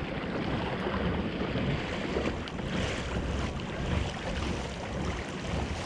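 Steady wind noise on the microphone over sea water washing around a kayak.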